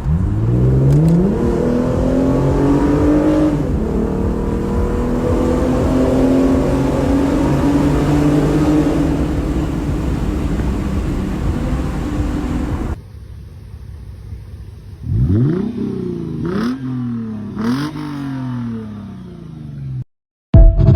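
2015 Lexus RC350 F Sport's 3.5-litre V6 through an aftermarket axle-back exhaust, accelerating hard with the pitch climbing, dipping briefly at a shift, then climbing again. After a sudden cut, three quick throttle blips rise and fall back to idle, and a short loud burst comes near the end.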